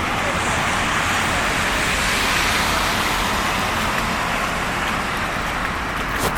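Street traffic: a steady hiss of car tyres on a snowy road, swelling about two seconds in as a vehicle passes. A short sharp click right at the end.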